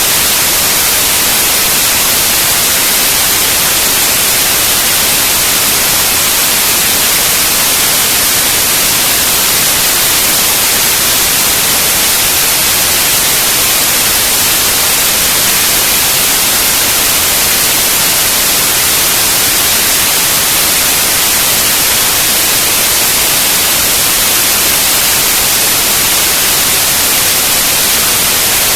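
Loud, steady static hiss, brightest in the high range, with no change or other sound in it.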